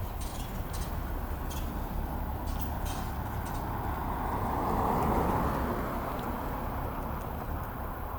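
Distant road traffic running steadily, swelling as a vehicle passes about halfway through and then fading.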